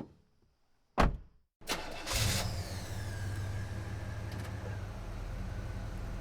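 Two sharp clicks, then a car engine cranks briefly and catches about two seconds in, settling into a steady idle.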